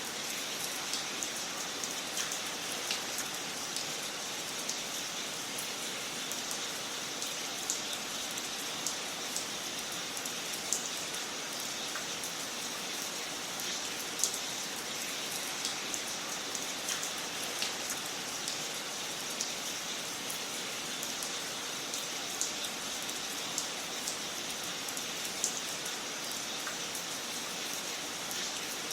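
Fire crackling in a fireplace: a steady soft hiss with irregular sharp pops and snaps.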